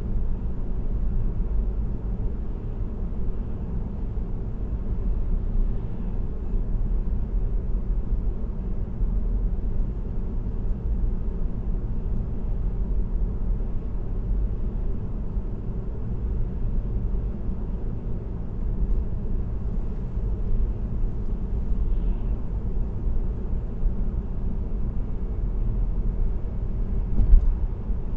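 Steady low rumble of tyre and road noise from a car cruising on an expressway, heard from inside the car, with a brief louder thump near the end.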